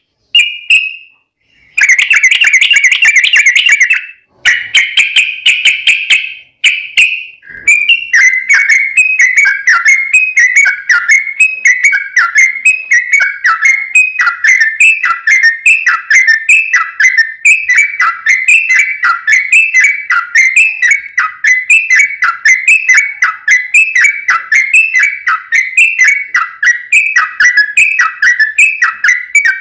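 Yellow-vented bulbul (trucuk) song used as a lure call. It opens with several seconds of dense, rapid warbling broken by short gaps, then runs into a long string of quick, repeated whistled notes at about one and a half a second.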